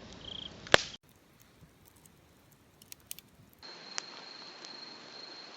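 Open wood fire crackling with scattered sharp pops, the loudest a little under a second in. Insects trill behind it, and a steady high insect drone comes in about three and a half seconds in.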